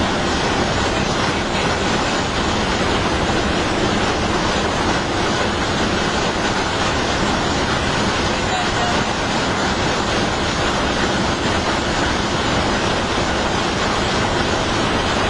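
Steady road and engine noise heard inside a moving coach bus cruising at speed, an even rumble and hiss with a faint engine hum underneath.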